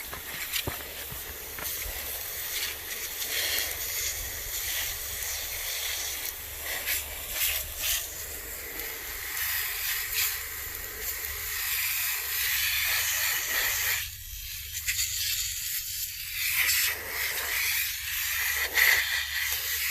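Steady hissing noise with scattered faint clicks.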